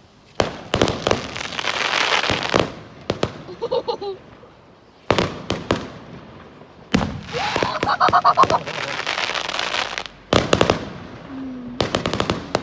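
Aerial fireworks exploding: sharp bangs, each followed by a second or two of dense crackling, in about five bursts with short lulls between them and a quick run of bangs near the end.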